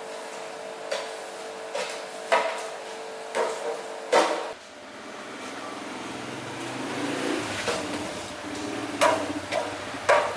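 Scattered knocks and clanks of tools or parts being handled, about eight sharp strikes, over a steady hum that stops about four seconds in.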